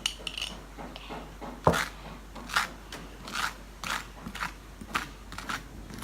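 Short scrapes and clicks of small objects being handled on a table, about two a second, with one sharper knock near the second mark.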